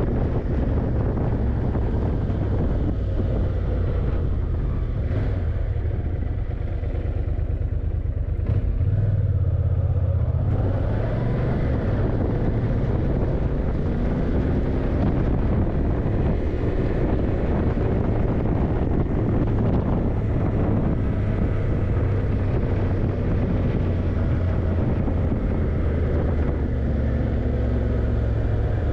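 Yamaha TDM900 parallel-twin motorcycle engine running under way, its pitch rising and falling with the throttle through the bends. It eases off briefly about six to eight seconds in, then picks up again.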